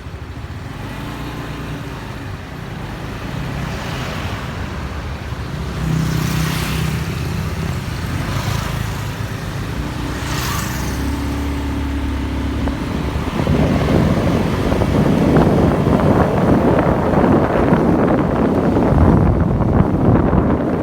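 Motorbike engine pulling away and riding through traffic, its note stepping up and down with the throttle and gears, with other vehicles passing. About thirteen seconds in, wind buffeting the microphone takes over as the bike picks up speed.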